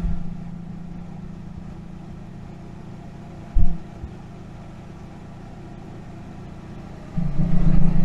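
Car engine idling with a steady low hum. There is a short low thump about three and a half seconds in, and the hum grows louder and rougher near the end.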